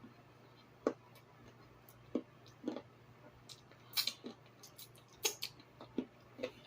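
Close-miked eating sounds: a person chewing with wet lip smacks and mouth clicks, about a dozen irregular sharp smacks with short squishy chewing between them.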